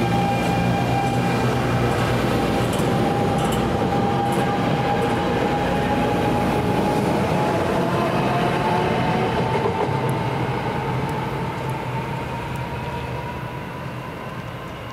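NJ Transit Arrow III electric multiple-unit train passing close by: rumble of wheels on the rails with a high whine that rises slightly in pitch. The sound fades over the last few seconds as the train pulls away.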